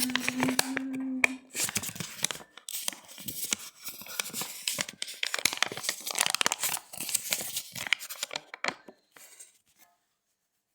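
Rapid, irregular squeaking and crinkling strokes, like something being rubbed and crumpled, with a short low steady squeak in the first second and a half. It stops abruptly about nine and a half seconds in.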